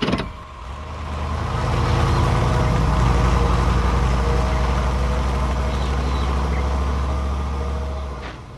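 A sharp thump, then a large old convertible's engine running as the car drives off. Its steady drone builds over the first couple of seconds and fades away near the end.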